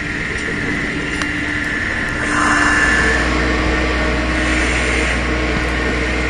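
An engine running steadily, growing a little louder for a moment about two and a half seconds in.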